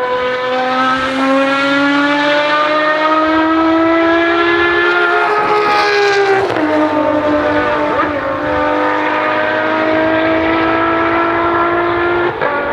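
Ferrari FXX Evo's V12 engine accelerating hard at high revs, its pitch climbing steadily, with a sharp upshift about six and a half seconds in and another near the end.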